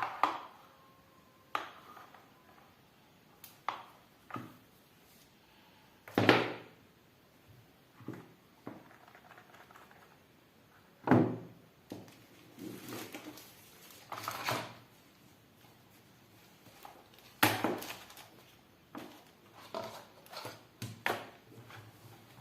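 Handling noise of a smartphone and its packaging: irregular clicks, taps and knocks with short bouts of rustling, a few of the knocks sharper and louder than the rest.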